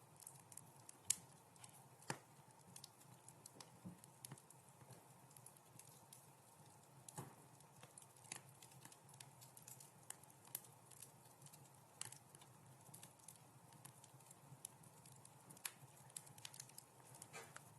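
Wood fire crackling in a fireplace: irregular small snaps and pops over a soft low rush of flame, with a few sharper pops, the loudest about a second in.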